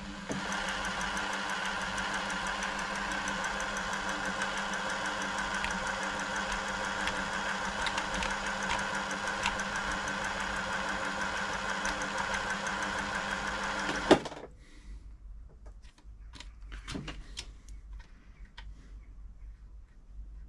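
Pfaff-built Silver 1139 sewing machine running steadily under its motor for about fourteen seconds, then stopping with a click, followed by faint handling noises. It is being run to work freshly applied WD-40 into a sticky, slow-moving part of the mechanism.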